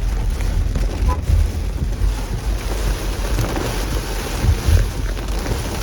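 Hard rain and wind rushing steadily over a low rumble, the sound of driving through a heavy downpour.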